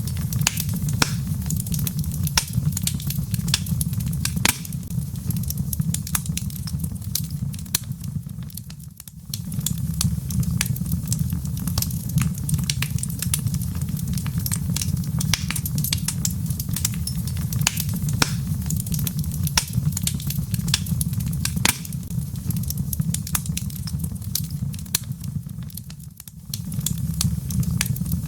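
Wood logs burning in a fireplace, crackling and popping with many sharp snaps over a steady low rumble. The sound dips briefly twice, about nine seconds in and near the end.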